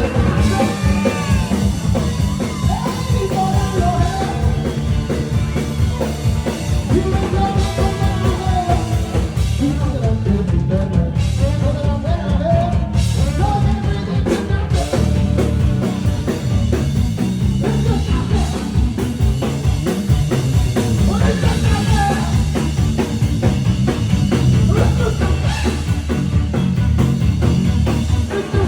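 A rock band playing live, with singing over drums and a steady low-end beat.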